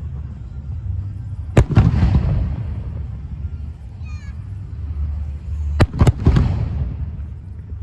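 Aerial fireworks bursting: one sharp bang about a second and a half in, then two close together near six seconds, each trailing off into a rumbling decay over a continuous low rumble.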